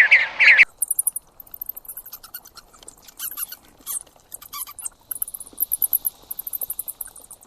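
A small animal's rapid, very high-pitched squeaks and chirps in irregular runs, following a brief burst of louder bird chirping that cuts off abruptly under a second in.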